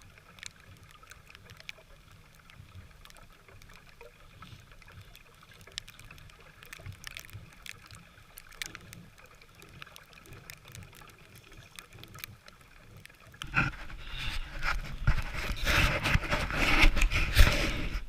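Footsteps crunching through deep snow, faint at first. For the last few seconds they are much louder, with wind rumbling on the microphone.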